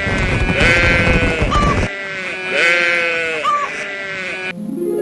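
Sheep bleating several times in long wavering calls, with short high calls between them. A few steady musical notes begin near the end.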